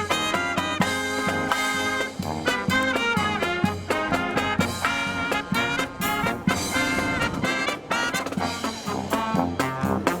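A live brass marching band plays a swinging tune, with trumpets and trombones over a steady drum beat. Strong wind rushes across the microphone.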